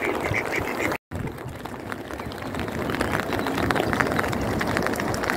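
Heavy rain falling, a steady dense patter. In the first second a run of short repeated calls, ducks quacking, sounds over it. The sound then cuts out for a moment about a second in.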